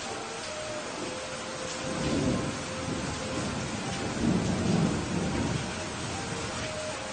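Steady rain with rolling thunder. The thunder swells about two seconds in and is loudest around four to five seconds in.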